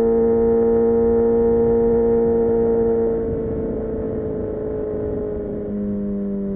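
Kawasaki Ninja ZX6R inline-four engine running at a steady speed, then easing off about three seconds in, quieter, with its pitch sagging slowly and stepping down slightly near the end.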